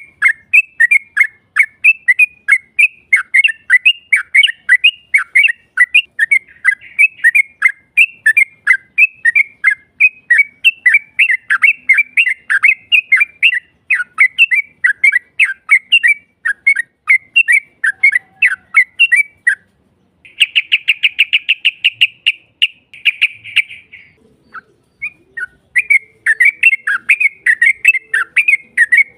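Yellow-vented bulbul (trucukan) singing a long chattering song of quick, repeated notes, about three a second. About two-thirds through, a fast buzzy trill lasts a few seconds, then the chattering resumes after a short pause.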